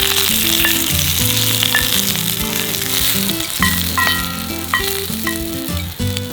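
Steak sizzling as it cooks over a campfire, a steady hiss, with background music playing.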